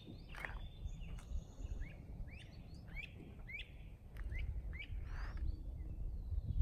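A songbird singing a run of short, repeated downslurred chirps, about three a second, over a low rumble.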